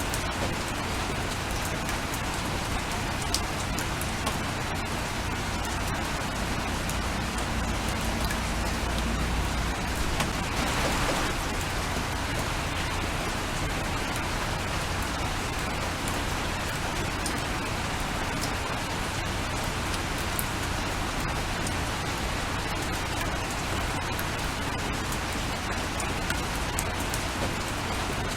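Steady rain falling, a constant hiss with scattered sharp drop ticks. A low rumble rises about six seconds in and fades out after about ten seconds, with a brief surge in the rain's hiss just after.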